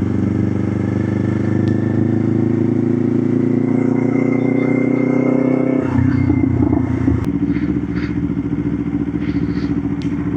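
Motorcycle engine running under way. Its note climbs slowly for about six seconds, then drops abruptly and settles at a lower, steady pitch.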